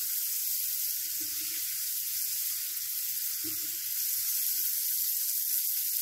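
Chicken tikka pieces and tomatoes frying in oil on a flat iron tawa, a steady sizzle. The chicken and tomatoes are cooked down soft.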